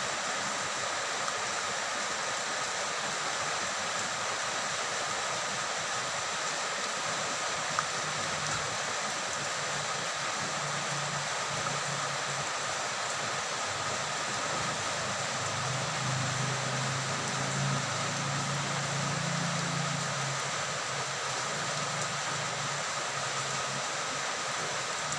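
Steady rain falling, a dense even hiss. A low hum swells up about ten seconds in and fades away near the end.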